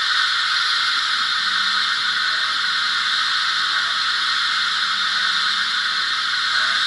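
Steam locomotive sound effect from the MarWick Stanier 8F DCC sound decoder: a steady, loud hiss of escaping steam with no exhaust beats.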